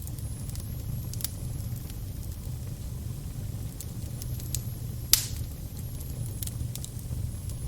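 Crackling fire: a steady low rumble of flame with scattered sharp pops, the loudest a little after five seconds in.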